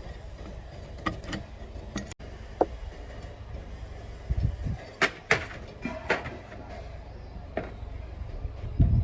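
Tools and engine parts knocking and clinking now and then, with a cluster of louder knocks near the end, over a low steady rumble.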